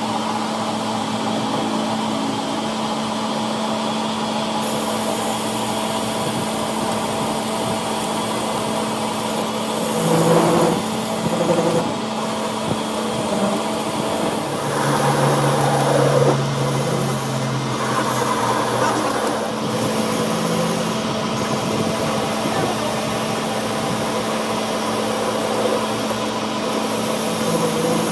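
A shop machine's motor running steadily with a constant hum, with louder, uneven passages of working noise twice in the middle.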